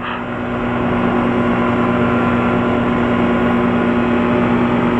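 Light aircraft's engine running steadily, a constant hum that grows slightly louder over the first second.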